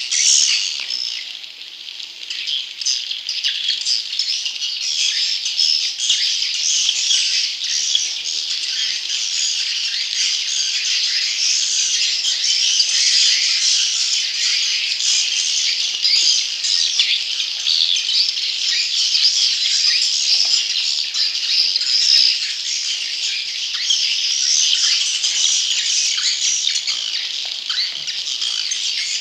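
Swiftlet lure recording: a dense, continuous chorus of rapid, high chirps from juvenile edible-nest swiftlets, used in swiftlet farming to attract wild swiftlets. The chorus drops briefly in level about a second in.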